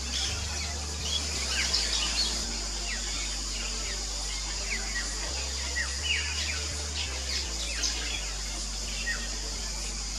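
Fairy martins chirping at their nesting colony: many short, quick downward-sweeping chirps scattered throughout, over a steady hiss.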